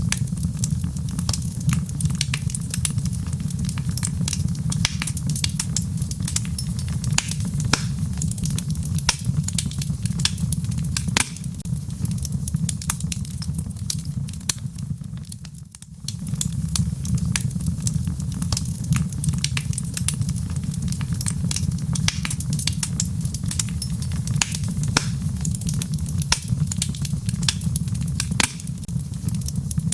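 Wood logs burning in a fireplace: a steady low rumble of flames with frequent sharp crackles and pops. About halfway through, the fire sound briefly fades and then comes back suddenly.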